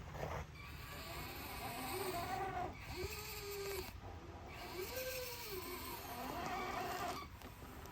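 Electric motor and gearbox of an RC scale crawler whining, the pitch rising and falling four times as the throttle is worked, over a steady background hiss.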